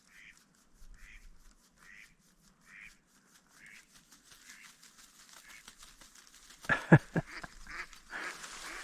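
Duck quacks: a soft series of calls about once a second, then a cluster of several loud quacks about seven seconds in.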